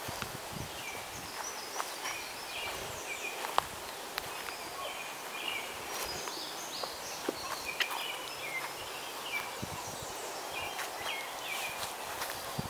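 Several birds singing and chirping in short repeated high-pitched phrases, with scattered soft footsteps and clicks on the grass.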